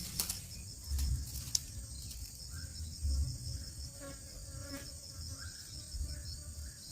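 A steady, high-pitched chorus of insects, with low rumbles rising and falling on the microphone and a few faint short chirps.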